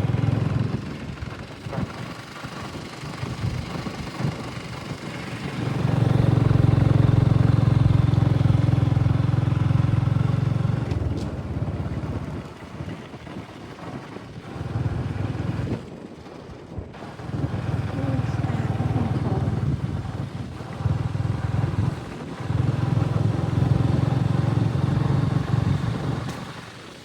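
An engine running in several loud stretches of a few seconds each, a steady low hum with overtones, dropping away in between.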